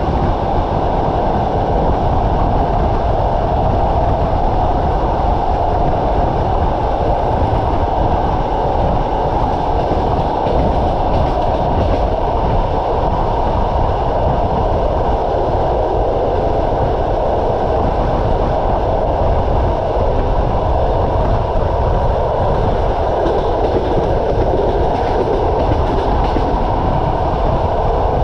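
Passenger train carriage running at speed: a steady rolling rumble of steel wheels on the rails, with no breaks or changes.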